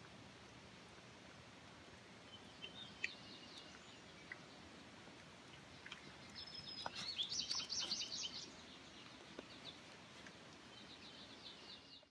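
Small songbirds chirping over a steady outdoor background hiss: scattered chirps at first, then a rapid run of high chirps, the loudest part, around six to eight seconds in, and another short series near the end.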